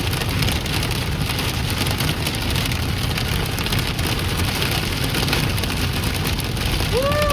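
Hail and rain pelting a moving car in a dense, rapid patter over the rumble of road and engine. Near the end a short tone rises and then falls.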